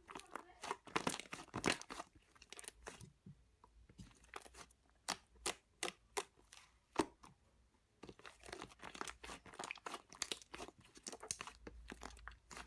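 Slime being squeezed and stretched by hand, giving a run of sticky clicks and crackling pops, with a brief lull about halfway through.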